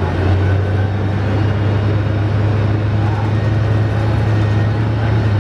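Scania K310IB bus's diesel engine running steadily, a deep even drone.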